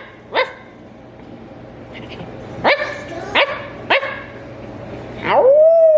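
Dog barking in short single barks: one just after the start, three more about two-thirds of a second apart in the middle, then near the end a bark that slides up into a long howl falling slowly in pitch.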